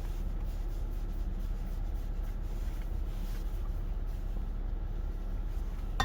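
Steady low background rumble with only faint soft ticks, and a sharp click at the very end.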